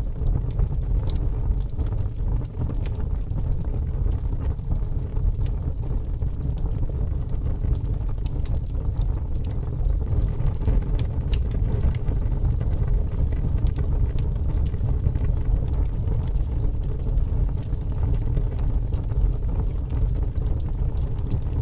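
Fire burning, a steady low roar with small crackles and pops scattered throughout.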